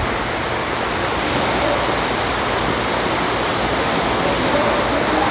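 Steady rush of flowing water, an even, continuous noise.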